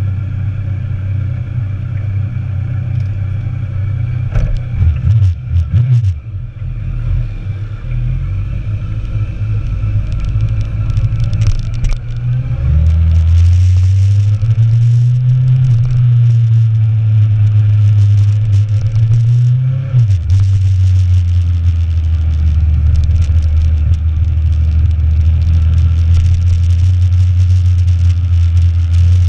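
Inline-four sport motorcycle engine running on the road. It picks up and gets louder about 12 seconds in and climbs slowly in pitch, drops sharply about 20 seconds in, then holds a steady note.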